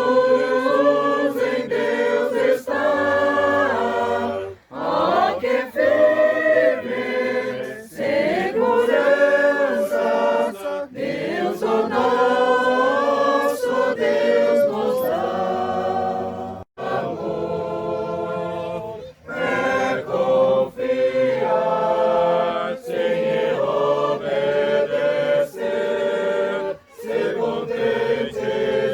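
A group of people singing a Portuguese hymn together in held phrases, with short breaks between lines.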